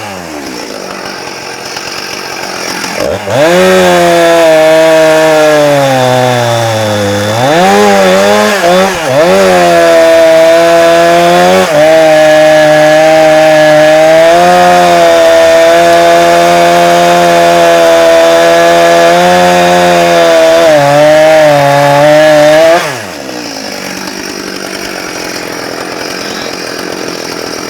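Chainsaw with a Rotatech chain and bar idling, then opened up to full throttle and sawing into wood for about 20 seconds. Its pitch sags and recovers a few seconds in, then it drops back to idle near the end.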